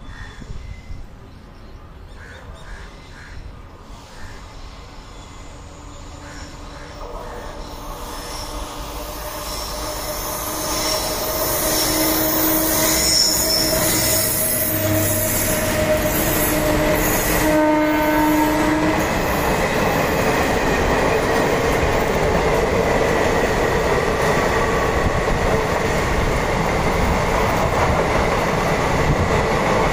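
Indian Railways WAP-7 electric locomotive approaching and sounding its horn on and off for several seconds midway, then passing close with its passenger coaches. The noise of wheels on rail grows steadily louder and stays loud as the coaches go by.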